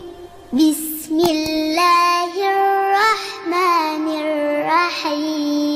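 A high-pitched voice chanting Quranic Arabic in melodic tajweed style, holding long notes with ornamented turns, and pausing briefly between phrases.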